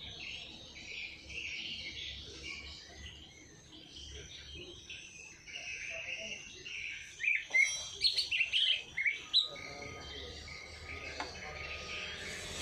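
Songbirds chirping and twittering steadily. From about seven seconds in, a run of loud, sharp calls lasts a couple of seconds.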